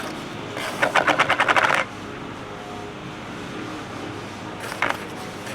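A quick run of sharp, evenly spaced clicks, about a dozen a second for just over a second, from hand work on engine parts. A single click follows near the end.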